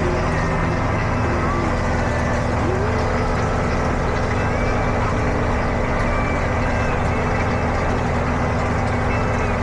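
Tractor engine running steadily under load, a constant low drone with no change in pitch.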